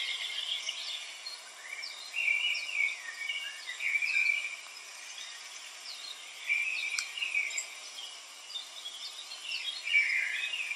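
Birds chirping in short clusters of high notes every second or two, over a steady outdoor hiss, with one sharp click about seven seconds in.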